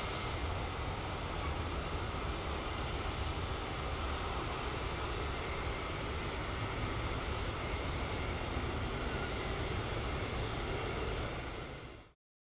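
Airliner engines running steadily: a broad, even rush with a thin, steady high whine over it. It fades out quickly near the end.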